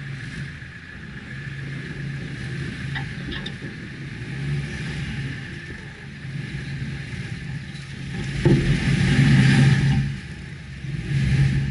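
Subaru Forester's flat-four boxer engine running while driving along a muddy, rutted off-road track; the engine note swells and gets louder about eight seconds in for a couple of seconds, eases off, then rises again briefly near the end.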